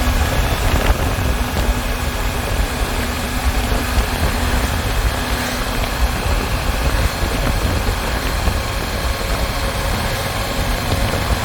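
Motorcycle running at a steady pace on the road, a constant low rumble with rushing noise over it.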